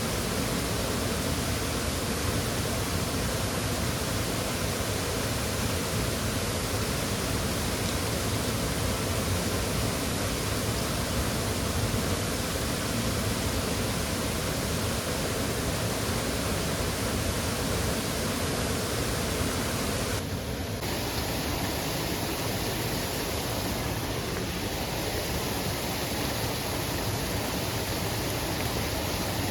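Waterfall rushing: a steady, dense wash of falling water with a brief dip and a slight change in tone about two-thirds of the way through.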